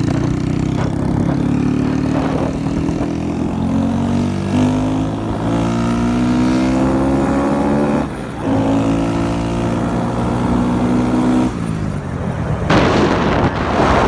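Motorcycle engine pulling hard under acceleration, its pitch climbing, dropping briefly at a gear change about eight seconds in, then climbing again. From about thirteen seconds in, loud wind noise on the microphone buffets over it.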